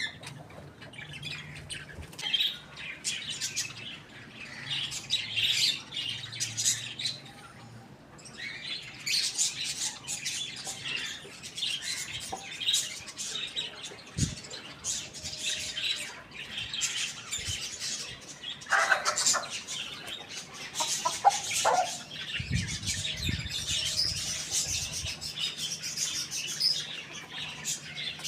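A flock of birds chirping continuously in many high, quick calls, with a couple of lower, louder calls about two-thirds of the way through.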